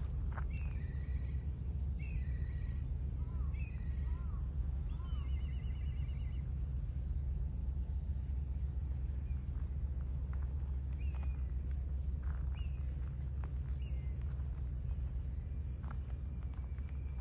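Outdoor ambience: a steady low rumble under a steady high insect drone, with a small bird calling in short repeated chirps through the first six seconds, including a quick trill about five seconds in, and a few more chirps around eleven to thirteen seconds.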